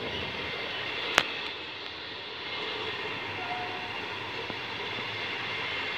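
Trenitalia regional train coaches rolling past on the track, a steady rumble of wheels on rail. A single sharp click about a second in.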